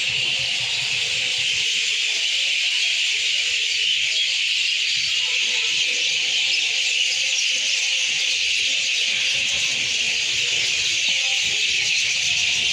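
A dense, steady chorus of many small birds chirping together, their calls merging into a continuous high-pitched chatter.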